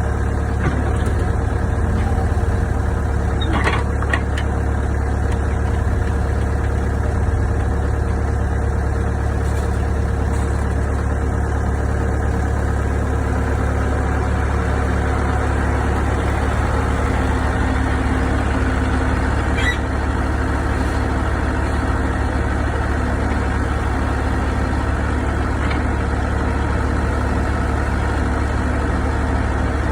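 Excavator's diesel engine running steadily. A second, lower steady tone joins a little before halfway, and there are a few faint ticks.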